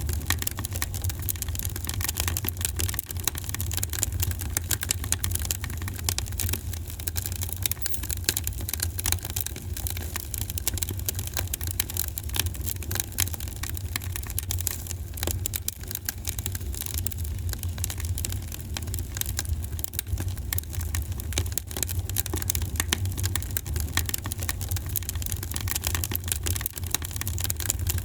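Fire burning in a fireplace: a steady, dense crackling of many small irregular pops over a constant low rumble.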